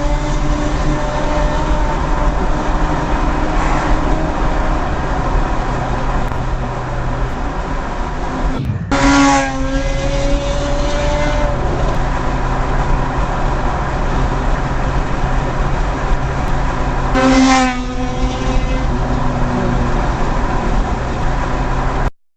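Steady road and engine noise from traffic, broken twice by a loud car horn blast, about nine seconds apart, each lasting a second or two. The sound cuts off abruptly near the end.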